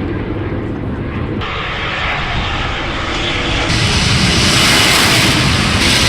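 Jet noise from an F-35 Lightning II flying its display, a broad roar that grows louder.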